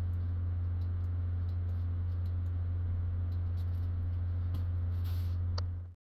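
A steady low hum with a few faint clicks over it, cutting off suddenly near the end.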